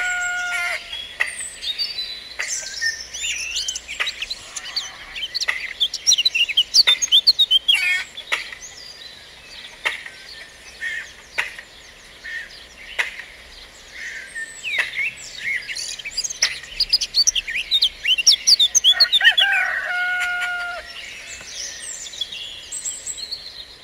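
Songbirds chirping and whistling busily, many short calls overlapping, with a rooster crowing once about nineteen seconds in; another crow ends just as it begins.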